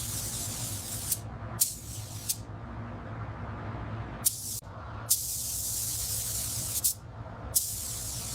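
Spray gun fired in five separate bursts of hissing spray, some short and one nearly two seconds long, each starting and ending with a sharp click of the trigger. A steady low hum runs underneath.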